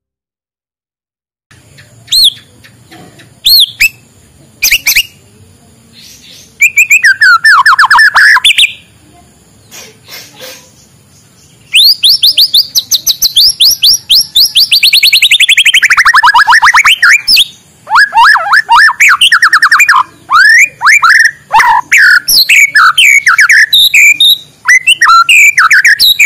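White-rumped shama singing loudly in varied phrases: clear whistled notes, rapid trills, and one long trill that sweeps down in pitch and climbs back up.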